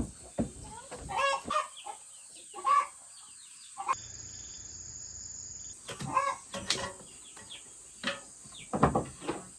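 Chickens clucking, a few short calls at a time, with a pause of about two seconds midway.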